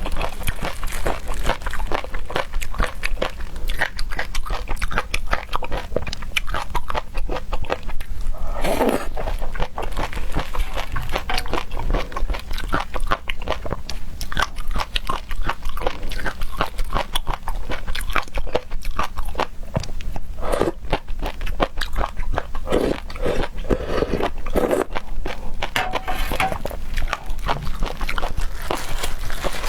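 Close-miked eating of seafood: steady biting and chewing with dense, fast wet clicks and crunches, and a few louder mouthfuls along the way.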